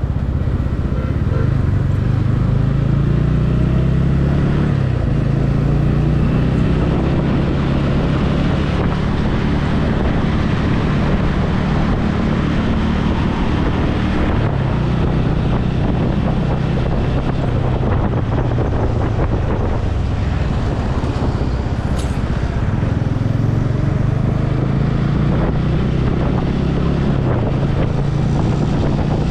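Motorcycle engine running steadily while riding, its note rising and falling slightly with the throttle, heard through steady wind rush on the helmet-mounted microphone.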